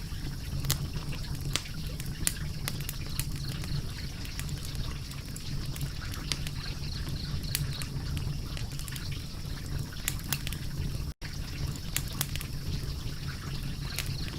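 Wood fire crackling, with frequent sharp pops and snaps over a steady low rumble; the sound cuts out for an instant about eleven seconds in.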